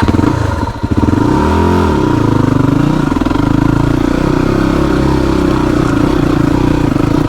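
Trail motorcycle engine pulling hard under throttle as the bike sets off up a steep hill, its pitch swinging up and down in the first couple of seconds, then holding a steady loud drone.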